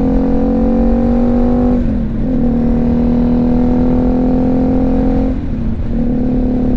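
BMW G310GS's single-cylinder engine running under way, a steady note with low wind rumble, heard from the rider's helmet. The note dips and breaks off twice briefly, about two seconds in and again near five and a half seconds, then picks up again.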